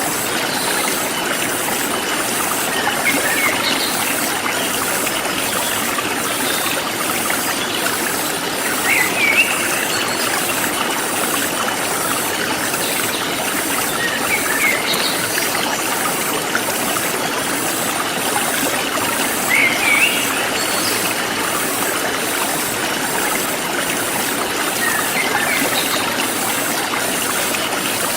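Forest stream flowing steadily, with short bird chirps every five or six seconds and a high, evenly pulsing insect call.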